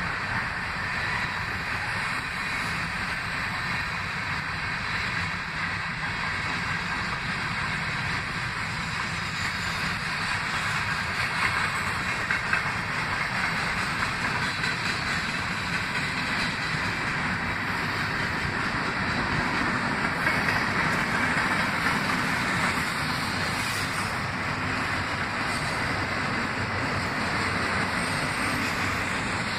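Freight train rolling past: the steel wheels of covered hopper cars and autorack cars running on the rails, a steady noise throughout.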